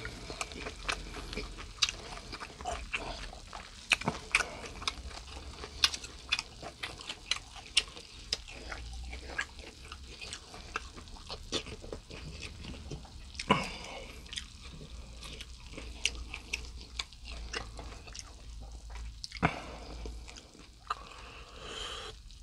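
A person chewing food with irregular wet smacks and clicks.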